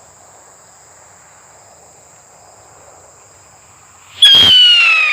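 Crickets chirping steadily, then about four seconds in a sudden loud bang and a strong whistle that falls in pitch: a rojão skyrocket launching and whistling up into the sky.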